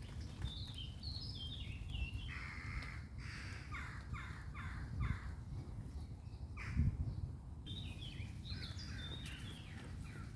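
Wild birds calling over a steady low rumble. There are falling runs of short high notes near the start and again near the end, and a series of about four harsh calls a little after two seconds in.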